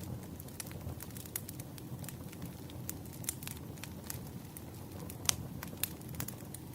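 Fireplace fire crackling: a steady low rumble of flames with frequent irregular sharp pops and snaps, one louder pop about five seconds in.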